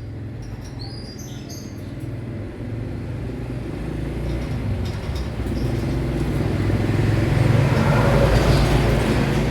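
A motor vehicle passing, a low engine rumble that grows louder and is loudest near the end. A few short high bird chirps come in the first two seconds.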